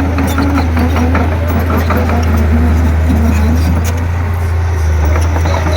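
Komatsu D31P bulldozer's diesel engine running with a steady low drone under load, with scattered light clicks.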